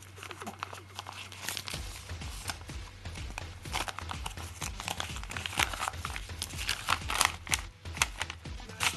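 A mailed package being torn open by hand: its wrapping crinkles and tears in a dense run of irregular crackles and snaps.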